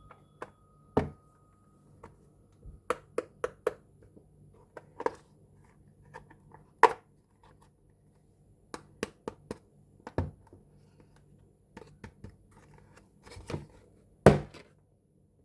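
Small plastic toy kitchen pieces being handled and set down: scattered clicks and taps, with a quick run of four clicks about three seconds in and the loudest knock near the end.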